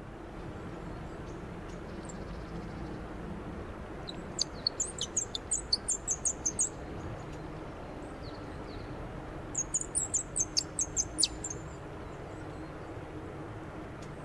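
Wooden bird call twisted in two quick runs of high, squeaky chirps, about four or five a second, with a pause of about three seconds between the runs.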